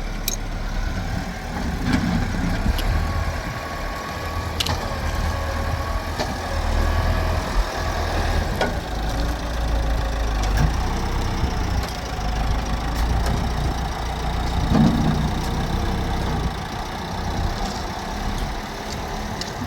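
An engine idling steadily with a low rumble, with a few scattered clicks and knocks.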